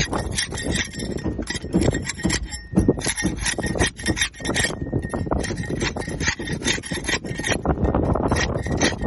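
Barnacles being scraped off a boat hull: rapid, irregular rasping strokes in quick succession, with a faint steady high tone underneath.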